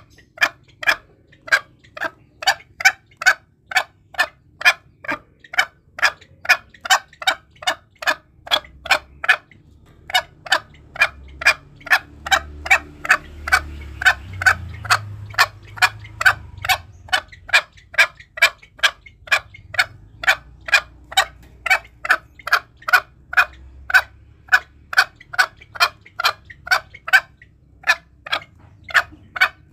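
Green junglefowl calling: a fast, even series of short calls, about two or three a second, pausing briefly about a third of the way in and again near the end.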